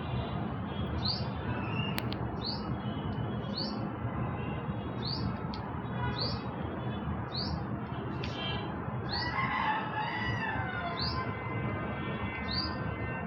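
Hummingbird repeating a short, high chirp that sweeps upward, about once a second, which the uploader takes for a mating call.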